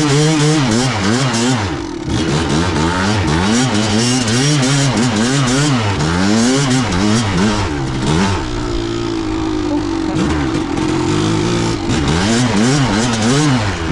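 Kawasaki KDX200 two-stroke single-cylinder dirt bike engine revving up and falling back again and again as it is ridden, with a short steadier stretch about two-thirds of the way through.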